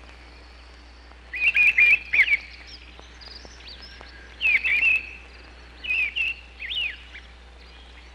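A bird calling in four short phrases of quick, swooping chirps, with pauses of a second or so between them.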